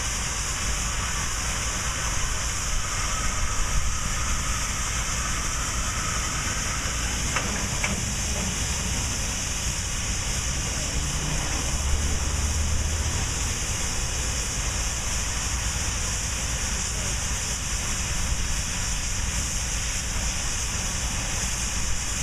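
Steam locomotive hissing steadily, with a low rumble underneath and a couple of faint clicks about eight seconds in.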